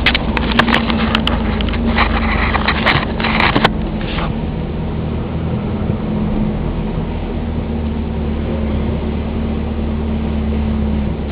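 1990 Volvo 740 GLE's 16-valve 2.3-litre four-cylinder engine running steadily, heard from inside the car. Over roughly the first four seconds there is a patter of sharp clicks and short rustling bursts.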